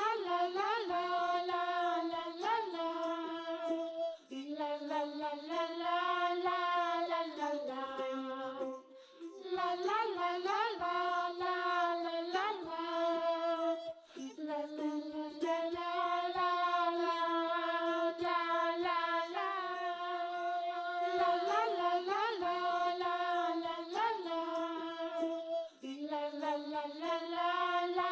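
Background children's song: a high, child-like voice sings a slow melody in long held notes, in phrases a few seconds long.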